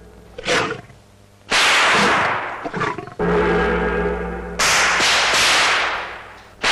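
A series of loud percussion crashes from a music track, cymbal-like and gong-like strokes about once a second or so, each ringing out and fading, some with a low booming tone beneath.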